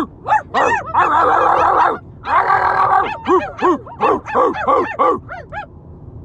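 People imitating dogs: a rapid run of short yips and barks from several voices, with two longer, denser stretches of barking in the middle. It stops a little before the end, leaving the low hum of car road noise.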